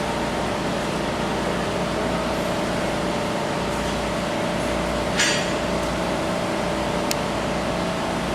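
Steady mechanical hum with a constant tone, broken by a short rustle about five seconds in and a sharp click near seven seconds.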